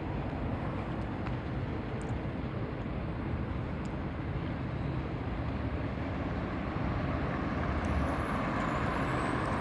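Steady low outdoor rumble, getting slightly louder near the end, with a few faint ticks.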